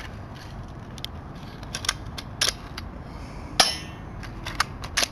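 Low-powered airsoft Uzi firing single shots at a cookie at close range: a string of sharp snaps at uneven spacing, the loudest about three and a half seconds in.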